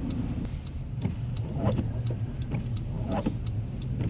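Car running on a snowy road, heard from inside the cabin: a steady low engine and road hum with faint short sounds every second or so.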